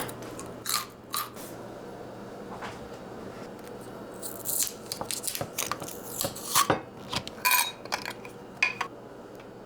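Kitchen handling sounds: a string of short clicks, clinks and brief scrapes of utensils and dishes, sparse at first and busiest in the second half.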